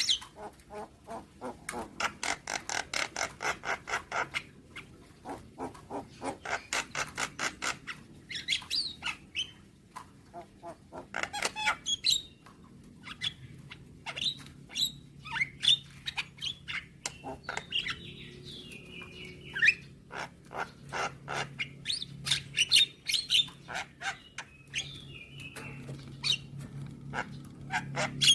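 Javan myna (jalak kebo) calling in runs of rapid, harsh clicking chatter, about six notes a second, with a few short whistled notes past the middle.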